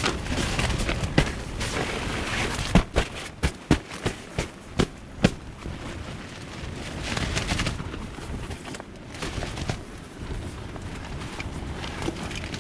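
Storm wind gusting against a tent, with wind-blown silt hissing on the fly and the fabric giving a run of sharp snapping cracks, most of them a few seconds in.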